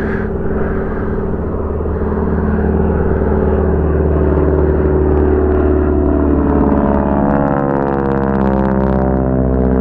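Old Second World War piston-engined warplane flying past, its engines droning steadily and loudly. Over the last few seconds the pitch falls as the plane passes.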